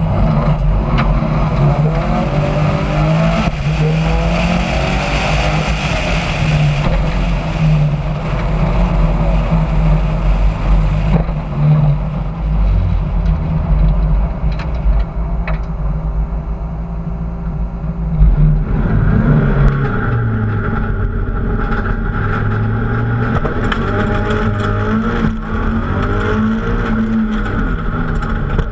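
Rally car engine under hard acceleration, its pitch climbing and dropping again and again as it is driven through the gears, with steady road and wind noise on an onboard camera. The engine eases off for a few seconds in the middle, then revs up again.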